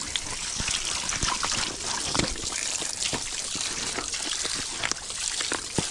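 Rainwater trickling and dripping: a steady watery hiss with irregular drops ticking close by.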